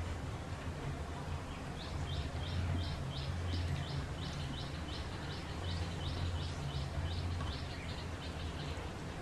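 A small bird calling a quick series of short, high, falling chirps, about three a second, starting about two seconds in and stopping near the end, over a low hum that swells and fades.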